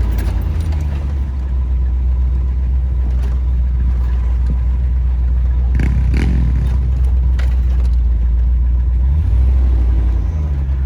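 Car driving slowly over rough ground, with a steady low engine and road rumble. A short, brighter sound comes about six seconds in.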